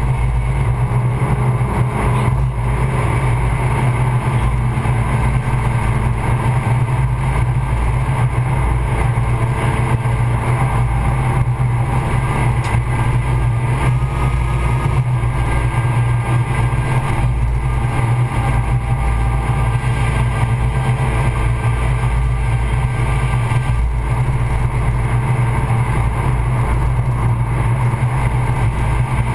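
Inside the cabin of a Stage 2-tuned Suzuki Swift Sport on track, a steady, loud drone of its four-cylinder engine mixed with road and wind noise.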